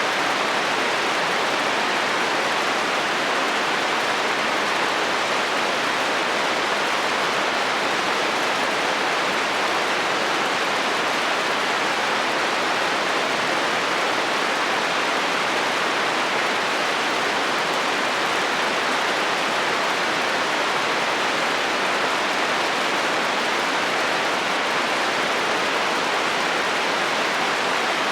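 Heavy rain drumming steadily on a metal roof, an even hiss of countless drops with no breaks and no thunder.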